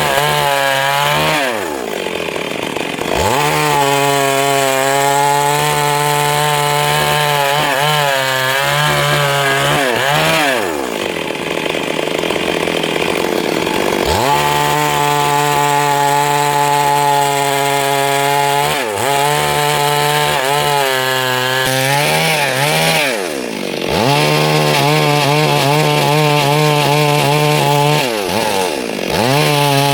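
Stihl MS 382 two-stroke chainsaw running at high revs, cutting wood. About five times the engine pitch drops sharply and climbs straight back as the throttle is eased and reopened.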